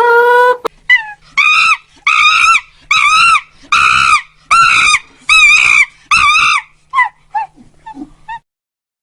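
An animal giving a run of seven even, high, arching cries, each about half a second long and coming about once a second, then a few short, fainter yelps near the end. This follows the tail of a long, steady held call at the very start.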